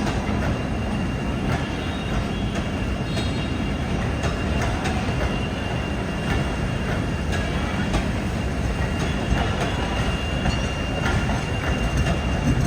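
Train running on the track: a steady rumble with a faint high wheel squeal and scattered clicks from the wheels on the rails.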